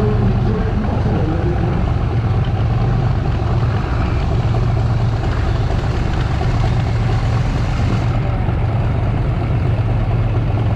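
Car engine running at a steady idle, a low even hum with no change in pitch.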